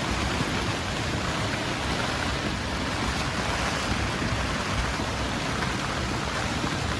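Heavy rain falling steadily in a storm, a dense even hiss, with gusting wind rumbling at the bottom.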